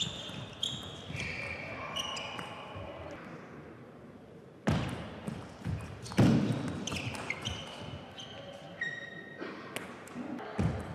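Table tennis rally: the celluloid-type plastic ball clicking off bats and table in quick alternation, about two hits a second. About halfway through there is a sudden loud burst, then a longer loud stretch of voices, before the ball bounces a few more times.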